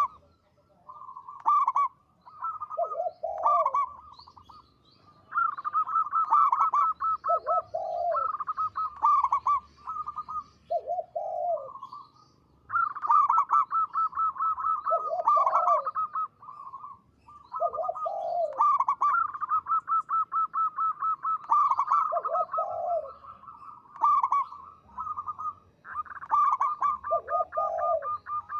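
Zebra dove (perkutut) singing: repeated phrases of quick staccato notes, most ending in a lower coo, coming every few seconds.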